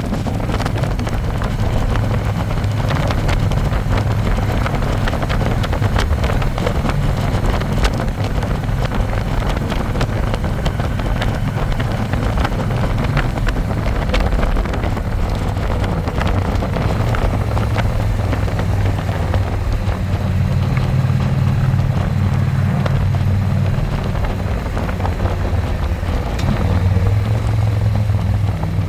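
Harley-Davidson Electra Glide's V-twin engine running steadily at road speed, with wind rushing over the microphone. The low engine note swells twice in the second half.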